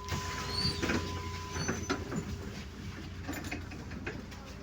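Inside a MAZ 105 city bus: a low engine drone with clicking rattles and a few short high squeaks from the body and fittings, busiest in the first two seconds.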